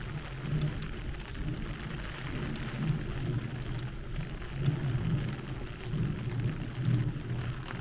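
Heavy rain falling steadily, with a low, uneven rumble underneath and scattered sharp ticks of single drops striking close by.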